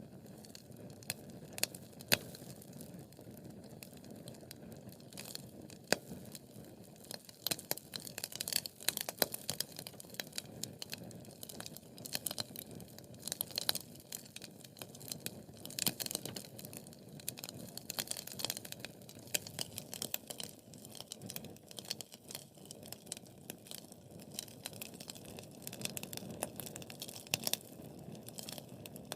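Wood fire crackling: irregular sharp pops and snaps from the burning logs over a steady low rush of flames, the pops coming thicker from about a quarter of the way in.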